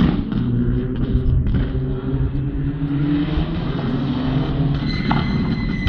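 Rally car's turbocharged four-cylinder engine heard across the circuit, its note climbing for a couple of seconds as it accelerates, then falling back.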